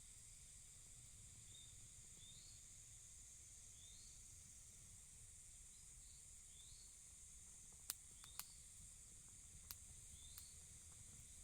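Faint outdoor ambience: a steady high insect-like hiss, with a short rising chirp repeating every second or two. A few sharp clicks come about eight to ten seconds in.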